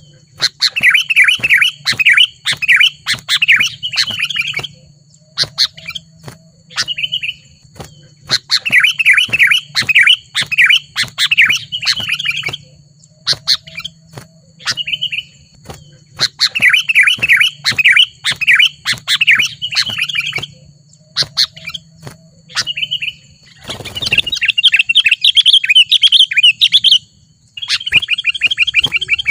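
Sooty-headed bulbul (kutilang) singing in bursts of fast chattering phrases, each a few seconds long and recurring about every eight seconds, with short single calls between them. Near the end a sudden thump is followed by a longer, denser burst of song.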